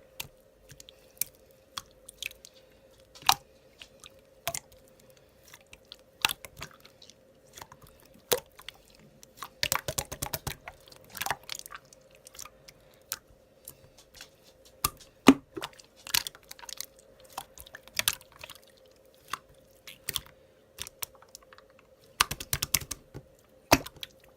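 Slime being pressed and squished by hand, giving irregular sticky clicks and crackles, some in quick clusters, over a faint steady hum.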